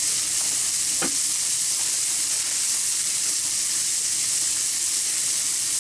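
Ground-beef burger dogs frying on a Blackstone flat-top griddle: a steady, high sizzle.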